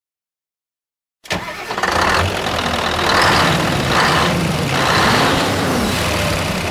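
Scania V8 truck engine starting suddenly about a second in, then running loud, swelling and easing about once a second.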